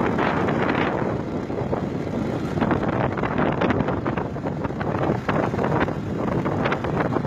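Wind buffeting the microphone of a moving motorbike, over the engine and road noise.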